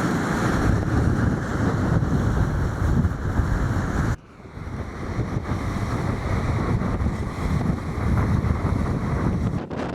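Strong wind buffeting the microphone in heavy rumbling gusts, over the wash of wind-driven waves on a flooded shoreline. The sound drops out abruptly about four seconds in, then builds back up.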